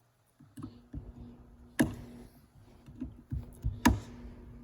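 Sharp clicks and knocks of a tool prying at the plastic retaining tabs on a car's gear-shifter assembly. There are several light taps and two louder knocks, about two and four seconds in, over a faint steady hum.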